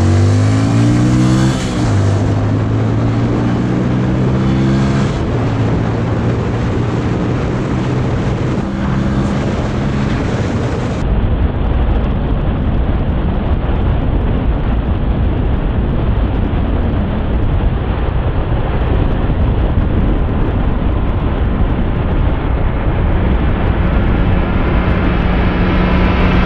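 Honda CRF150L's single-cylinder four-stroke engine accelerating hard through the gears. Its pitch rises, drops and climbs again twice in the first few seconds as it upshifts. Then heavy wind noise on the microphone at speed, with the engine holding a steady high drone at full throttle near its top speed.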